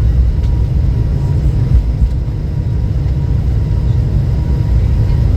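Steady low rumble of a vehicle in motion, with a faint steady high tone running through it.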